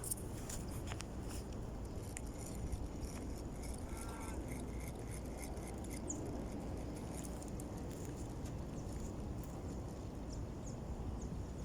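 Steady wind rumbling on the microphone, with a few faint bird calls, one short honking-like call about four seconds in followed by a string of quick chirps, and scattered small clicks.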